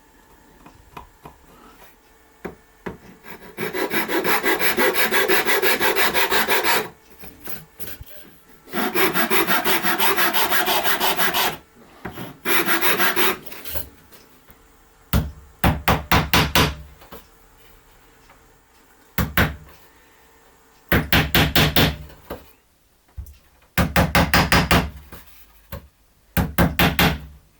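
Hand sanding old paint off the wooden parts of a window sun shade: rapid back-and-forth rubbing strokes on wood. It comes first in three long spells, then in shorter, heavier groups of strokes with short pauses between them.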